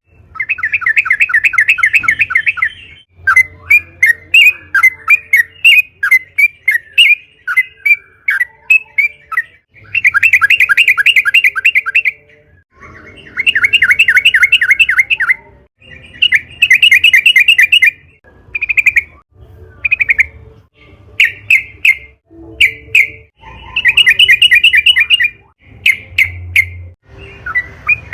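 Yellow-vented bulbul singing: fast rattling trills of two to three seconds each, repeated several times, with short clear chirps in the gaps between them.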